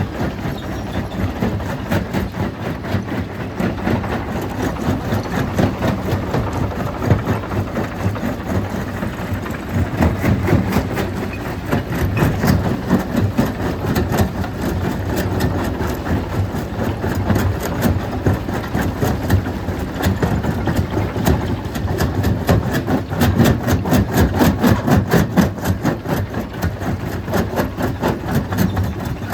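Stone crushing machine running at full power, a steady loud mechanical din thick with dense rattling as it breaks rock.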